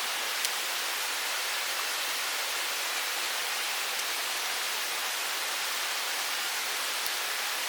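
Steady rushing of a mountain stream, with a faint click about half a second in.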